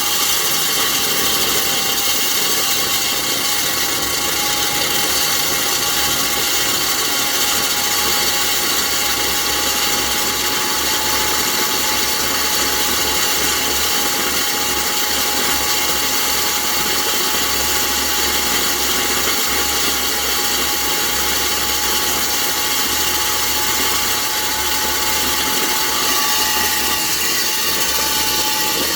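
Electric core drill running steadily with a 6-inch diamond core bit: a constant loud motor whine over a broad grinding noise.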